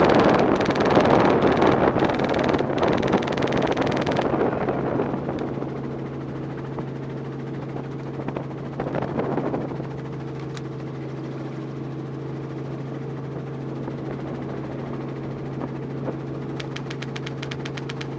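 Helicopter running, heard from on board: a loud rush of wind for about the first four seconds, then a steady engine and rotor hum. A fast run of high ticks comes near the end.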